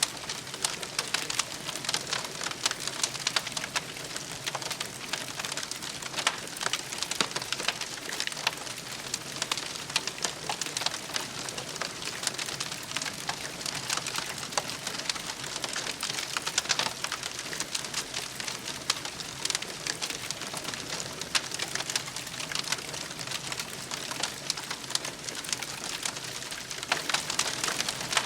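Wood campfire crackling, a dense run of small sharp snaps over a steady hiss.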